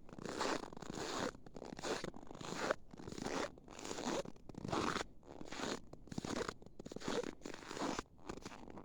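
Footsteps in snow: each step crunches and squeaks loudly underfoot, at a steady walking pace of about three steps every two seconds.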